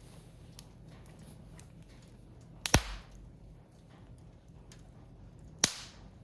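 Firewood burning in an open wood fire: faint crackling with two loud sharp pops about three seconds apart.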